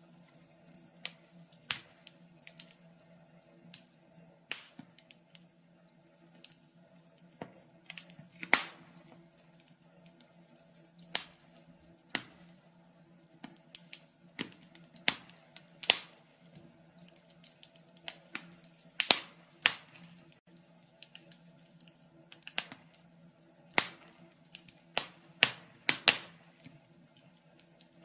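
Burning logs in a fireplace crackling, with irregular sharp pops, some much louder than others. A faint steady low hum runs underneath.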